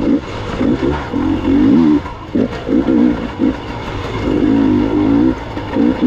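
Gas Gas EX 300 two-stroke enduro motorcycle engine revving up and down as the throttle is worked on and off, the pitch rising and falling every second or so.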